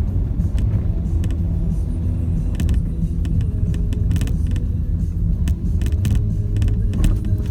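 Renault Duster 4x4 driving off-road: a steady low rumble from the engine and tyres, with scattered sharp knocks and clicks.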